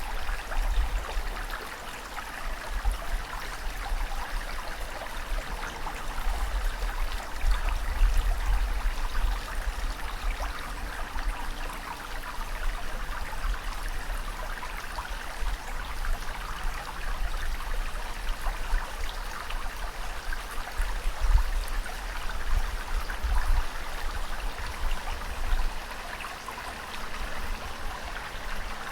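Moving water, a steady busy wash with a low rumble that swells and fades every few seconds.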